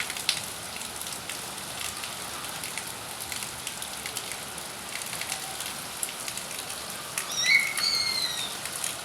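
Heavy rain falling: a steady hiss with the sharp ticks of single drops landing close by. About three quarters of the way through, a brief high call glides downward and fades.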